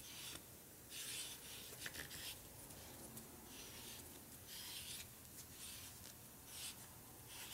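Hone stones rubbing back and forth over a Harley panhead rocker arm's outer surface during hand external honing, a faint scratchy stroke repeating roughly once a second.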